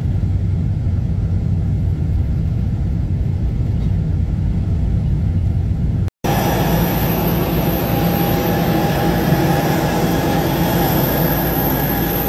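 Jet aircraft engines running steadily: at first a low rumble, then, after a cut about six seconds in, a brighter rushing noise with a steady high whine.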